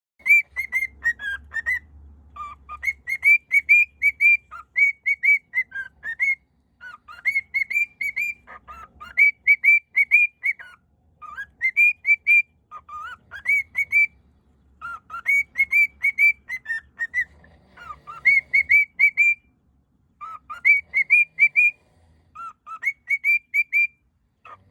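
Cockatiel whistling a tune: phrases of short, clear notes that rise and fall, with brief pauses between phrases.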